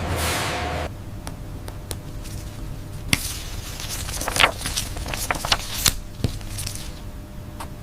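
Irregular sharp clicks and taps over a steady low hum, after a brief rushing sound that stops just under a second in.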